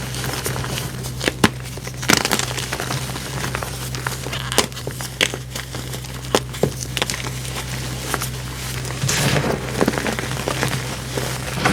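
Packed powder, cornstarch or gym chalk reforms, being crushed by hand: crisp crackling with sharp snaps scattered throughout and a denser burst of crunching about nine seconds in, over a steady low hum.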